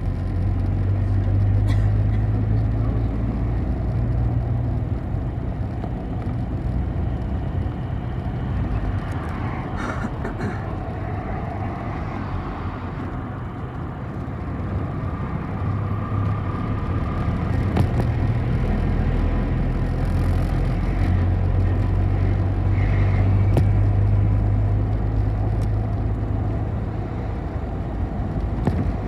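Bus engine drone and road noise as the bus drives, the low engine note strong at the start, easing off in the middle and building again through the second half, with a few short clicks and rattles.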